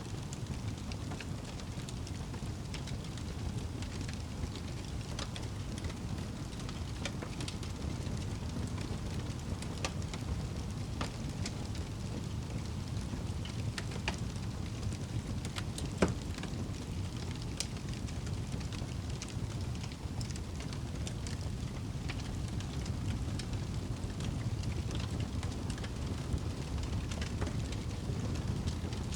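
Wood fire burning in a fireplace: a steady low rumble of the flames with scattered crackles, and one louder pop about halfway through.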